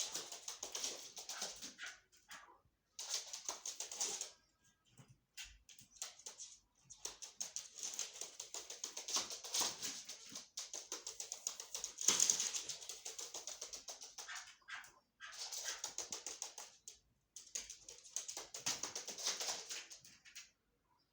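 Chukar partridge calling: bouts of rapid, clicking chatter a second to a few seconds long, with short gaps between them.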